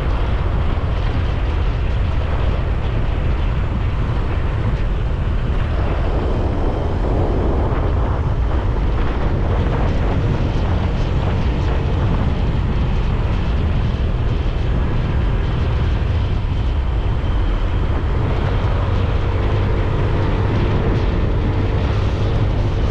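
Motorcycle being ridden on the road, its engine running steadily under a heavy rush of wind on the microphone.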